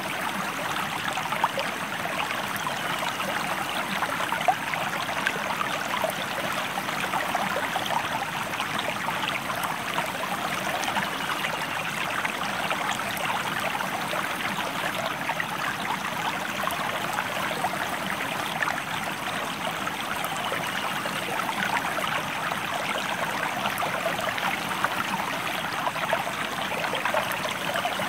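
A river stream running steadily: an even rush of flowing water full of small splashes and trickles.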